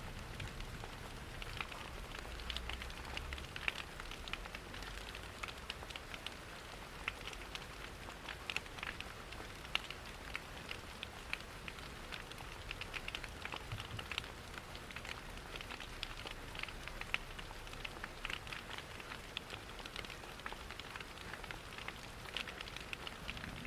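Layered ambience of steady rain and a crackling fireplace: an even hiss dotted with many small, sharp crackling ticks.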